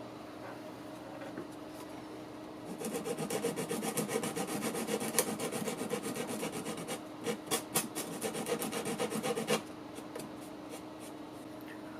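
A small piece of wood being abraded by hand in quick back-and-forth rasping strokes, starting about three seconds in and stopping near the end.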